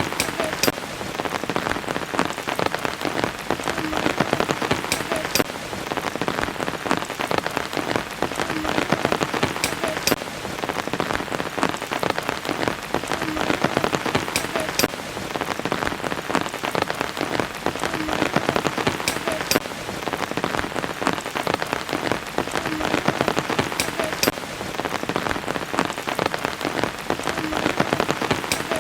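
Steady rain falling on surfaces, with many close drops ticking over a dense hiss.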